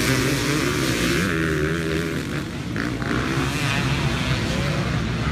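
Several dirt bike engines running and revving together, their overlapping pitches rising and falling.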